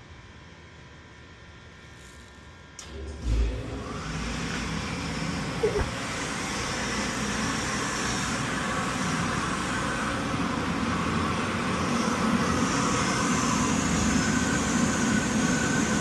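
Boiler burner lighting off about three seconds in with a low thump, then running with a steady rushing noise that slowly grows louder as it fires.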